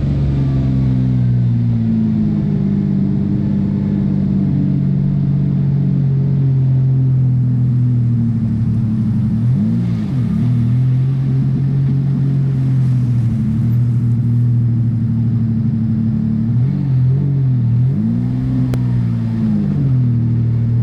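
Single-turbo Nissan 370Z's VQ37VHR V6 running at steady revs, its pitch briefly rising and falling about ten seconds in and again a couple of times near the end.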